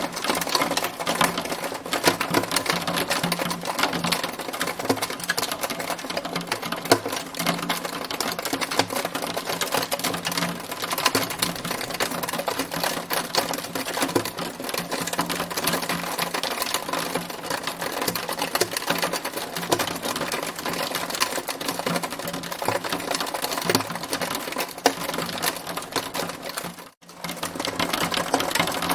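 Hailstones pelting a hard surface in a dense, rapid clatter of ticks and taps. It drops out for an instant near the end.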